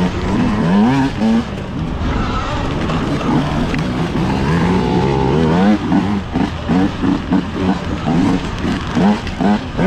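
Dirt bikes racing, their motor pitch rising and falling quickly and over and over as they accelerate and back off through the course.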